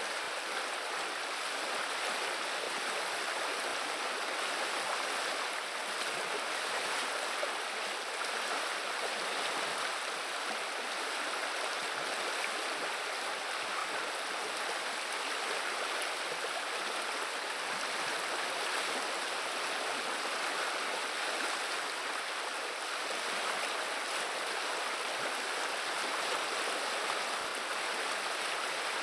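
River water running and babbling over stones, a steady rushing murmur with no breaks.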